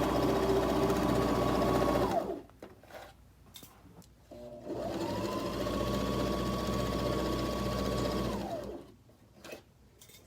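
Mechanical sewing machine stitching a seam through cotton fabric in two runs: about two seconds of sewing, a pause of about two seconds, then about four seconds more. The motor's whine glides up as it starts and down as it stops.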